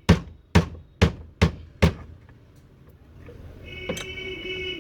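Hammer blows knocking a ceiling fan's motor apart to separate the stator from the housing: five sharp, even knocks about two a second, then a brief high squeal near the end.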